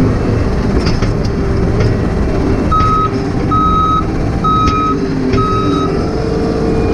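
Heavy-equipment travel/backup alarm beeping four times, just under a second apart, over a diesel engine running steadily, most likely the John Deere 135 excavator tracking. A few light metallic clicks come just before the beeps.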